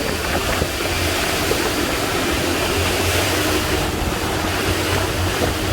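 Twin Detroit Diesel 6V53 two-stroke V6 engines running steadily at about 2800 RPM, their rated cruise speed, with a constant rush of water and wind as the boat runs on plane.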